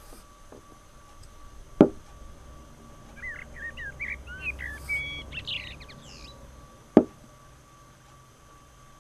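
A songbird singing a quick run of chirps for about three seconds in the middle, set between two sharp knocks about five seconds apart, which are the loudest sounds. A faint steady hum lies underneath.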